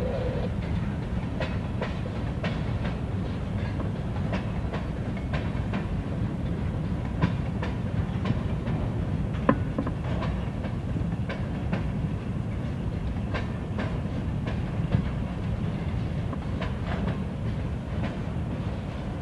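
A slow-moving string of freight cars, covered hoppers and centerbeam flatcars, rolling past with a steady low rumble. Irregular clicks and clanks come from the wheels and couplers, a few of them sharper and louder.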